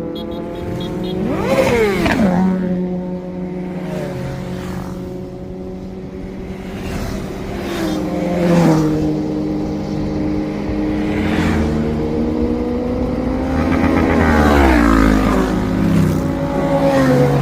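Motorcycle engines running and revving, their pitch rising and falling several times, with a sharp rev about two seconds in and a longer climb and drop around two-thirds of the way through.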